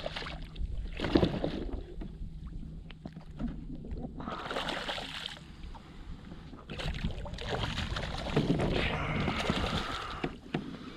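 Water splashing and sloshing around a fishing kayak, louder for a moment about four seconds in and again for a few seconds from about seven seconds on.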